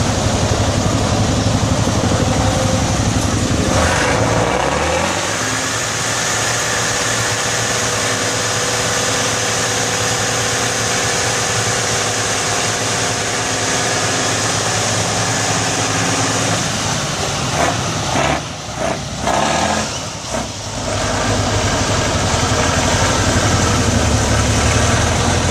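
Truck engine running steadily, with a shift in its pitch and rumble about five seconds in and a few brief drops in loudness later on.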